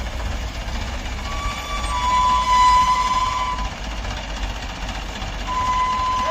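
Tractor engine running with a steady low rumble. A vehicle horn sounds for about two seconds, then sounds again briefly near the end.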